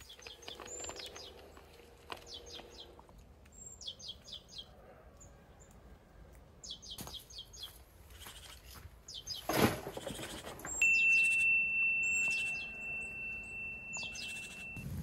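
A songbird singing a short, high, quick phrase over and over every couple of seconds. About two-thirds of the way in comes one sudden loud noise, and soon after a steady high pure tone that holds for about four seconds.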